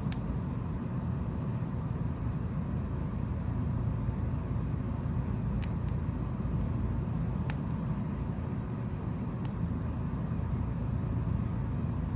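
Steady low background rumble, with a handful of faint, light clicks of small phone parts and tools being handled during reassembly.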